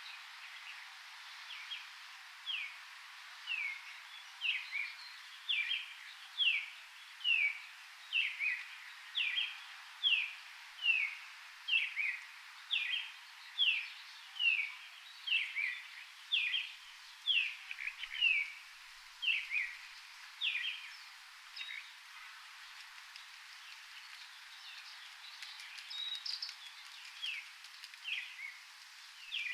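A bird repeating a short, descending whistled note, one or two a second, over a steady background hiss. It pauses for a few seconds and starts again near the end.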